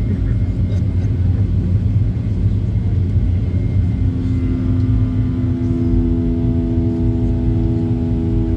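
Boeing 737-800 jet noise: a loud, steady low rumble, with a few steady tones joining in about halfway through.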